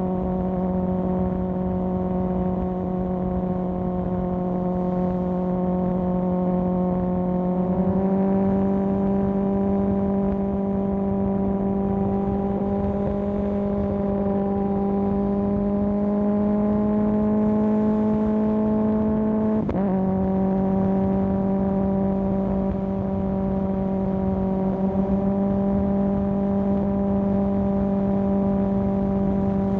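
Kawasaki ZX10R's inline-four engine running through an M4 exhaust while riding at steady revs. Its pitch steps up slightly about a quarter of the way in and climbs slowly. It drops suddenly about two-thirds of the way through, then holds steady.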